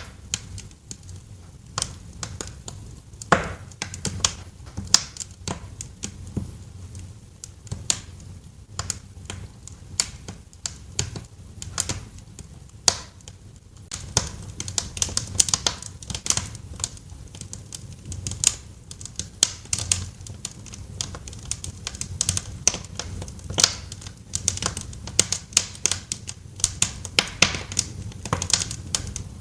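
Wood fire crackling, with irregular sharp pops over a low, steady rumble of flame. The pops come thicker and faster from about halfway through.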